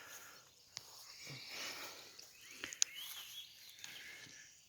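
Faint morning birdsong, several birds chirping in the distance, with a few sharp clicks, the loudest about three seconds in.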